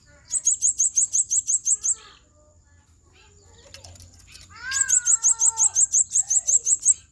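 Blue-crowned hanging parrot (serindit) giving rapid runs of shrill, very high chirps, about seven a second, in two bursts: first near the start, then from about the middle to the end. A lower whistled note slides under the start of the second run.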